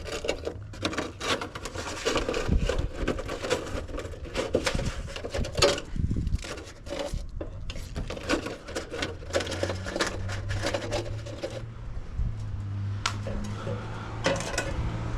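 Rustling and knocking of leftover roofing scraps being handled and gathered up as trash. About halfway through this gives way to a steady low hum.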